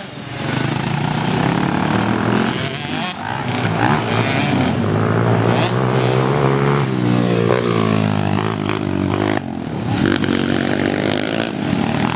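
Motocross bike engines revving, the pitch climbing and dropping again and again with throttle and gear changes, with a brief lull about nine and a half seconds in.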